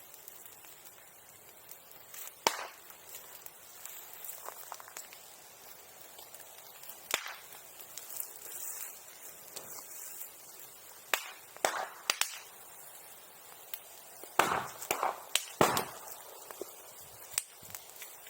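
Bonfire burning with sharp, firecracker-like pops at irregular intervals, the loudest about two and a half seconds in, and a cluster of duller knocks near the end.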